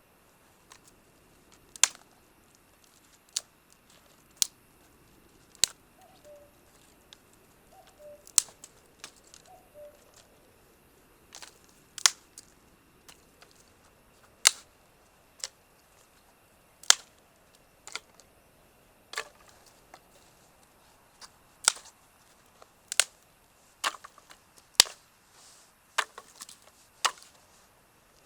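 Campfire wood popping: single sharp pops at irregular intervals, about every one to two seconds.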